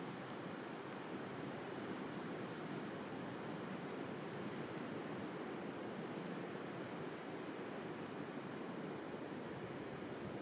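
Steady wash of sea waves, with faint scattered crackles and pops from a wood fire.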